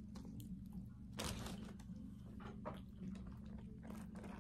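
A person chewing a mouthful of cheesesteak sandwich with soft wet mouth sounds, the loudest about a second in, over a steady low hum.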